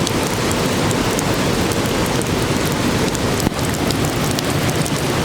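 Waterfall pouring close by: a loud, steady rush of falling water with scattered faint ticks of spray.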